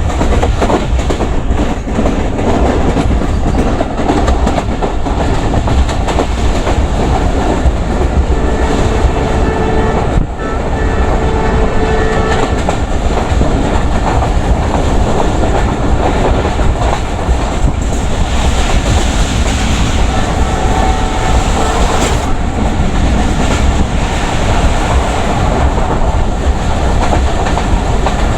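Passenger express train passing at speed, its coaches' wheels clattering over the rail joints in a continuous loud rush.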